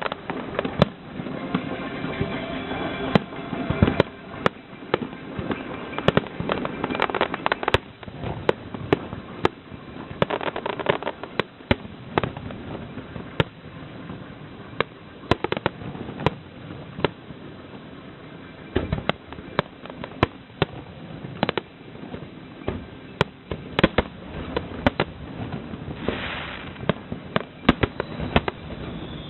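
Aerial fireworks shells bursting in quick, irregular succession, sometimes several bangs a second, in the finale barrage of a fireworks display.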